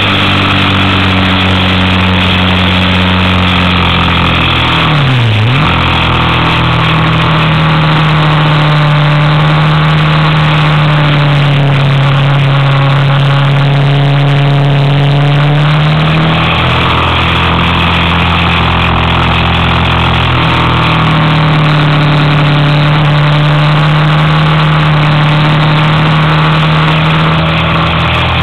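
Motorcycle engine pulling steadily up a winding climb, its pitch dipping briefly and recovering about five seconds in and shifting a couple more times later as the rider works the throttle through the bends.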